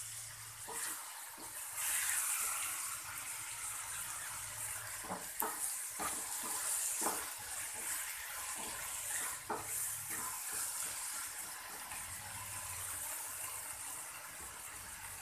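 Chopped tomatoes, just added to fried onions, sizzling in hot oil in a kadai, the sizzle growing louder about two seconds in. A wooden spatula stirs the mix, knocking against the pan a few times.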